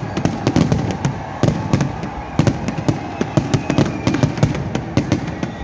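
Fireworks going off in quick succession: many sharp bangs and crackles, several a second, overlapping over a low rumble.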